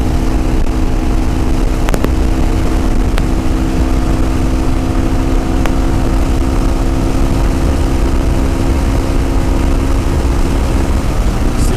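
Yamaha WR250R's single-cylinder four-stroke engine running at a steady cruise, its pitch holding constant, under heavy wind rumble on the microphone.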